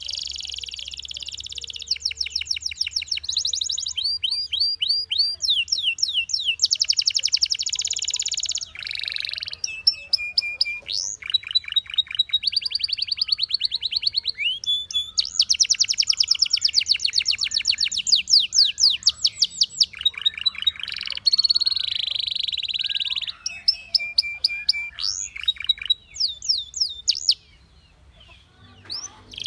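Domestic canary singing a long, high-pitched song of fast trills and rolls, with rapid runs of repeated notes and buzzy stretches. It falls silent briefly near the end.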